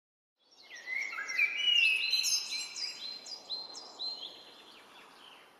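Birds calling, many short chirping notes overlapping over a faint hiss, fading in and then fading away.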